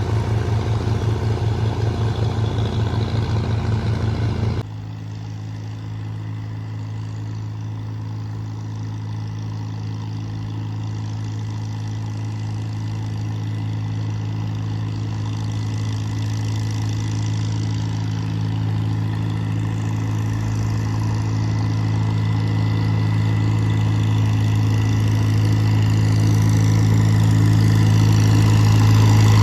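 Vintage tractor engine running at a steady pitch. About four and a half seconds in, it suddenly drops quieter, then slowly grows louder.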